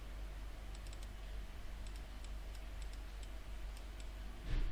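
Faint, scattered clicks of a computer keyboard and mouse, over a steady low hum.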